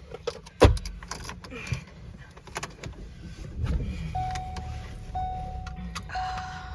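A car door shuts with a thump, followed by a few clicks. The engine then starts and runs while a single-tone warning chime beeps about once a second.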